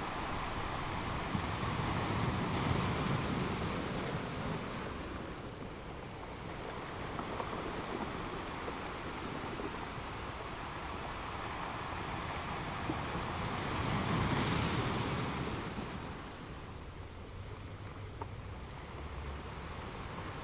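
Sea waves washing onto a beach: a steady rush of surf that swells louder a couple of seconds in and again about two-thirds of the way through.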